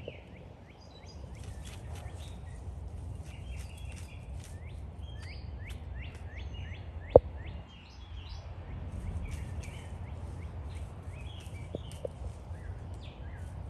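Birds chirping in many quick, short, down-sweeping calls over a steady low outdoor rumble, with one sharp click about seven seconds in.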